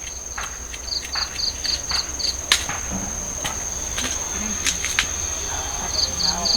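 Steady high-pitched insect drone, typical of crickets, with runs of short chirps about four a second near the start and again near the end. Scattered sharp knocks and clicks sound over it.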